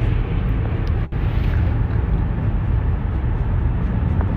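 Steady road and engine rumble inside a moving car, with a brief dropout about a second in.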